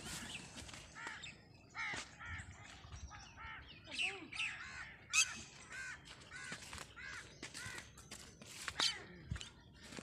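A flock of birds calling: harsh, short calls in quick succession, several a second and overlapping, with a few louder calls standing out about four, five and nine seconds in.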